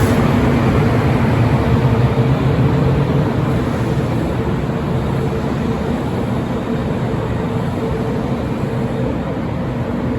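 Train running past a station platform: a steady rumble with a low hum and a higher steady tone, slowly getting a little quieter.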